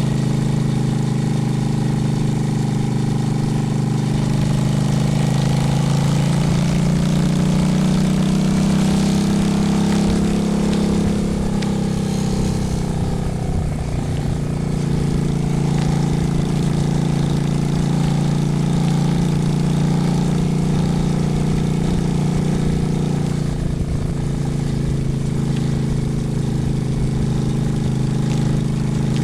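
Honda Shadow's V-twin engine running under way, climbing in pitch for several seconds as the bike speeds up, dropping about thirteen seconds in, then holding steady.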